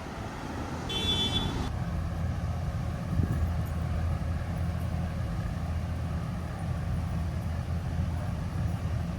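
A large vehicle's engine idling steadily, its low hum settling in about two seconds in. Just before that there is a short, high-pitched electronic beep.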